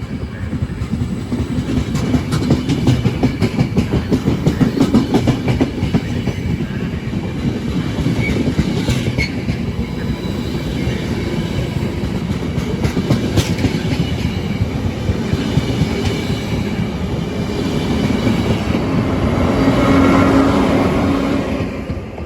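Intercity passenger train with an E401 electric locomotive passing at speed, its wheels clattering rhythmically over rail joints and points. It swells louder with a steady hum near the end, then begins to fade.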